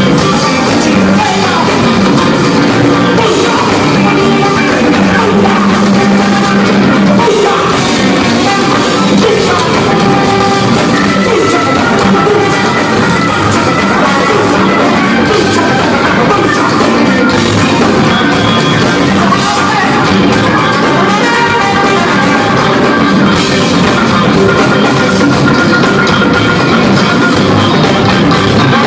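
Loud rock music: drums and guitar with singing, playing continuously.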